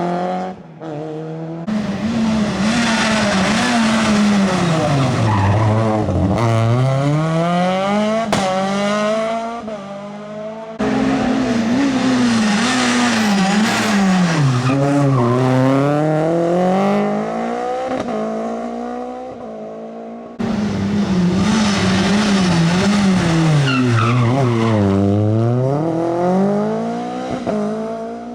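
Rally cars driven hard, one after another: each engine's pitch drops as the car slows into a corner and then climbs sharply as it accelerates away through the gears. Three passes, each starting abruptly, about 2, 11 and 20 seconds in.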